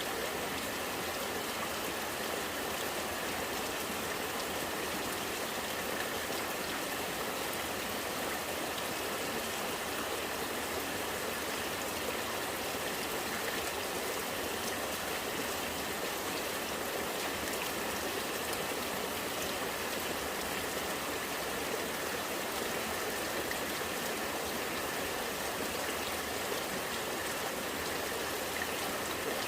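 Rainwater running and gurgling in a steady trickling stream, with raindrops pattering, steady throughout.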